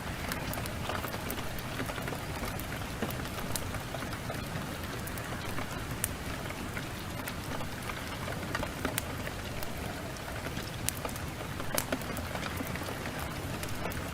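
Steady downpour of heavy rain, with scattered sharp crackles and pops from a burning wood fire.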